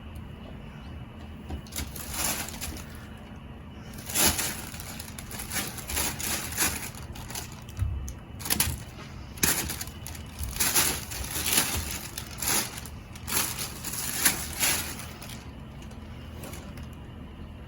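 Irregular rustling and scraping strokes, a cat toy being swished about and batted during play, coming in quick runs from about two seconds in and stopping near the end.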